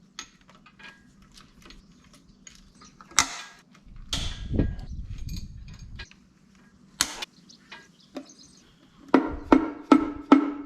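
Metal tools and engine parts knocking and scraping: a sharp knock about three seconds in, a rough scrape, a single clang, then a quick run of five ringing metal-on-metal strikes near the end.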